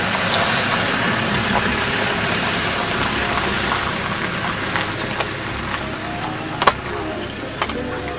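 Car engine running close by, a steady noisy rush, with two sharp knocks near the end, the first louder.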